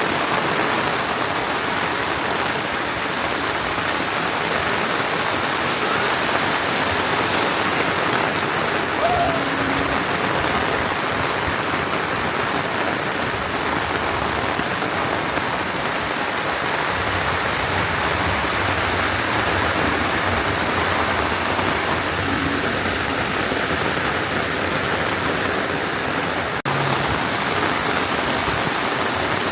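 Heavy rain falling steadily, an even hiss, with a momentary dropout near the end.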